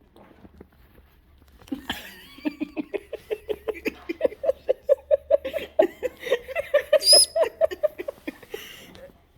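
A person laughing hard in a long run of quick ha-ha pulses, about four or five a second, starting about two seconds in and rising in pitch before it trails off near the end. A brief high chirp cuts through the laughter a little after the middle.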